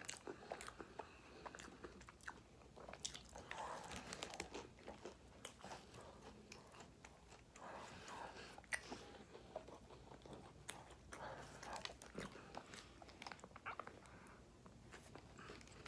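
A person chewing and biting fast food, faint crunches and wet mouth clicks scattered throughout.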